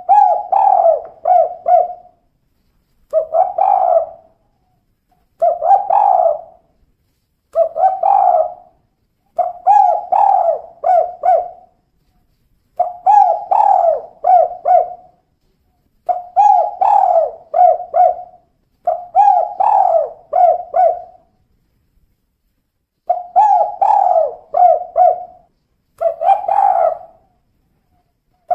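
Female spotted dove (tekukur) cooing: about ten repeated phrases, each a quick run of several short coo notes, with a pause of about a second between phrases.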